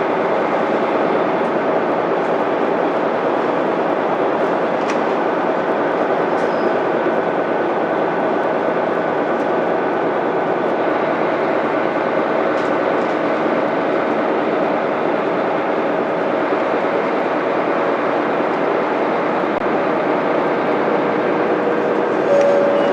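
Interior sound of a Mitsubishi Fuso Aerostar city bus under way: its 6M70 straight-six diesel engine running steadily under road and tyre noise.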